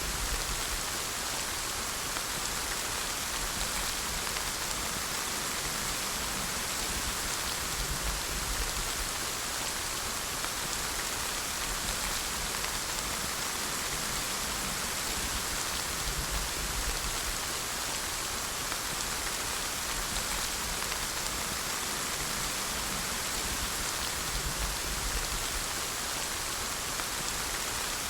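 Steady rain falling and pattering on surfaces, an even hiss with a faint low rumble now and then.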